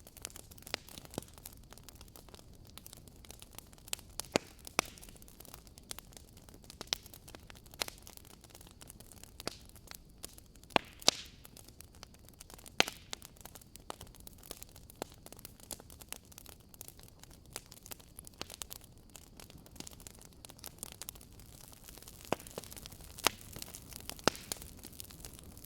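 Wood fire crackling: irregular sharp pops and snaps over a faint steady hiss, a few louder snaps standing out.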